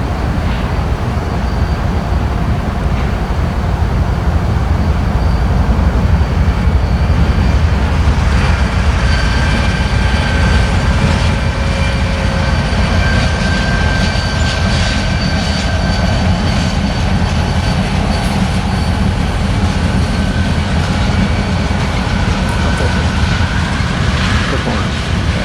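Train rolling past with a steady loud rumble of wheels on rails. Thin, steady high-pitched tones join in from about a third of the way through.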